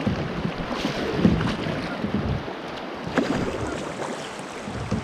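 Kayak on the river, with water splashing and lapping around the hull and paddle, and a few short knocks about one, three and five seconds in.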